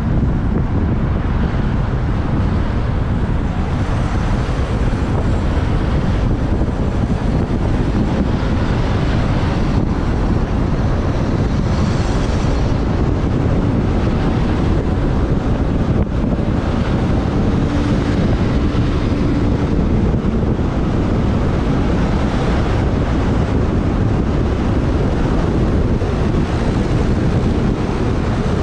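Wind buffeting the microphone of a camera on a moving motorbike, a steady rumbling rush with the motorbike and surrounding traffic underneath.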